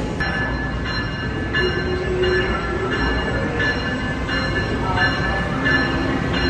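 Amtrak ACS-64 electric locomotive pulling slowly into a platform track, rumbling, with high whining tones from the train that come and go every second or less.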